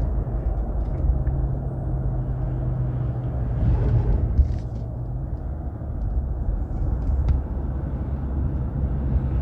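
2020 Ram's 3.0-litre EcoDiesel V6 turbodiesel, fitted with an aftermarket turbo inlet pipe, running as the truck drives down the road, with road rumble under it. A steady low engine drone holds from about one second in until about five seconds, then eases off.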